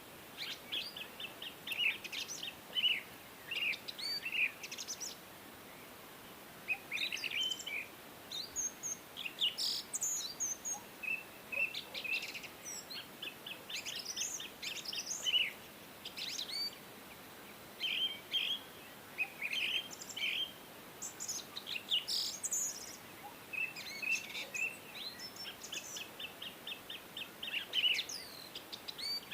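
Songbirds singing: repeated phrases of quick high chirps and rapid trills, a new phrase every few seconds, over a faint steady hiss.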